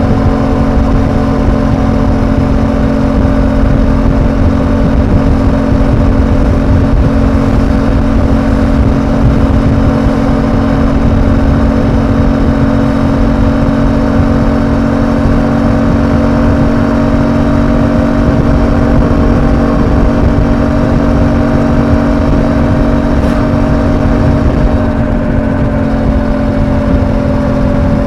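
Suzuki V-Strom 800DE's parallel-twin engine running at a steady cruise, a constant drone over a low rumble of wind and road. The pitch eases down slightly in the last few seconds.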